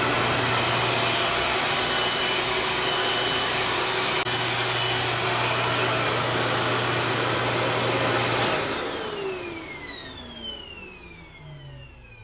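RevAir reverse-air hair dryer running with a steady, loud rush of suction air over a low hum. It is switched off about eight and a half seconds in, and its motor whine falls in pitch as it spins down.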